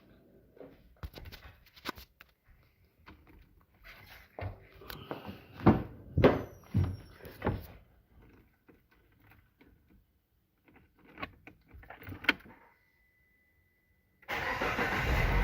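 A series of clicks and knocks, then a steady high beep for about a second and a half. About fourteen seconds in, the Peugeot 3008's 1.6 THP turbo petrol engine starts and runs smoothly: the engine is now timed correctly and the deep tappet knock is gone.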